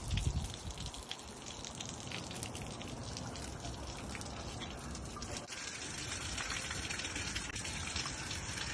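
Water running and splashing, with a patter of drops and small crackles over a steady wash of noise.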